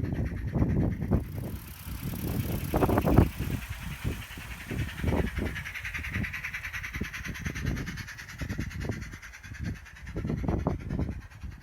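Model tank locomotive running on its track: a run of irregular low knocks and clatter, with a hiss that swells about halfway through and fades again.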